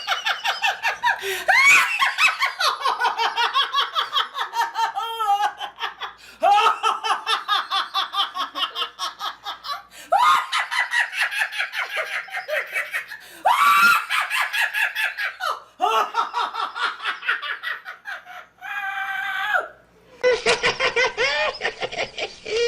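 Long runs of rapid, high-pitched laughter, pulsing several times a second, broken by short pauses every few seconds, with one briefer held call shortly before the end.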